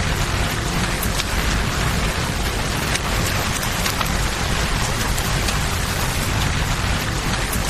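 Steady heavy rain falling, with a deep low rumble underneath and scattered sharp clicks of drops or crackles.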